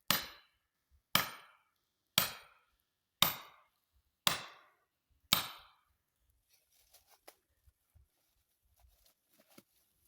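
Hammer blows driving a felling wedge into the cut of a hung-up red oak: six sharp strikes about one a second, each ringing off briefly. After the last blow there are only faint scattered ticks and crackles.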